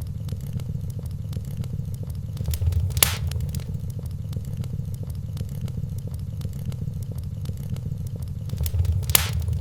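Wood fire in a fireplace crackling: a steady low rumble with many small snaps. Two louder pops stand out, about three seconds in and again near the end.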